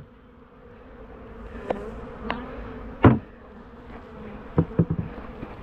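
Honeybees buzzing steadily around an opened hive. Several sharp knocks cut through it: the loudest comes about three seconds in, followed by a quick run of three near the end.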